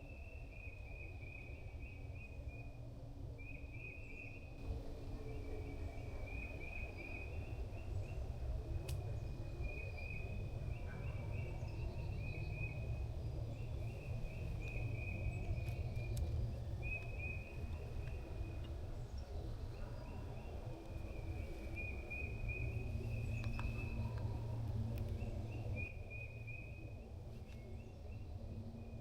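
Outdoor ambience: short, high trilling calls from a small animal repeating every second or two at the same pitch, over a steady low rumble.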